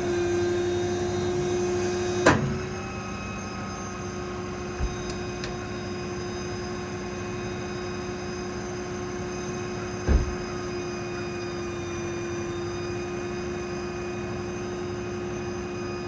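Ford F-550's 6.7 Power Stroke diesel running with the truck's hydraulics engaged, a steady whine. A sharp clunk about two seconds in and a low thump about ten seconds in.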